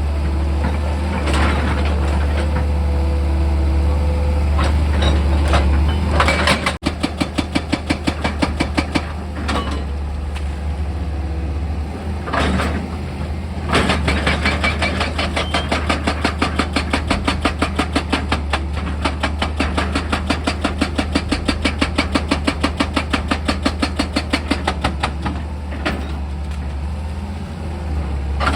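Excavator's diesel engine running, with a rapid, even mechanical hammering of about five strokes a second that starts about a quarter of the way in and breaks off briefly around the middle and again near the end.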